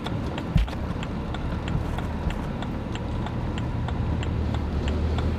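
Footsteps walking at an even pace, about three steps a second, over a low steady rumble.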